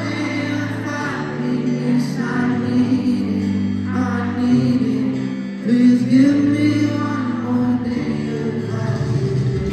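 Live pop song: a male singer singing over sustained band accompaniment.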